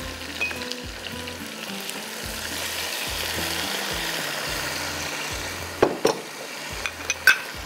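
Chicken pieces frying in hot oil in a pot, a steady sizzle that swells louder for a couple of seconds midway. Near the end a metal spoon knocks against the pot four times.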